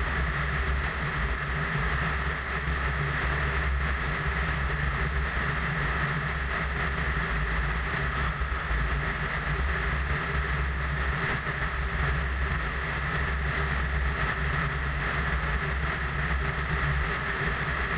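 Steady drone of a Van's RV-10's piston engine and propeller in level cruise, heard from inside the cabin, with an even pitch throughout.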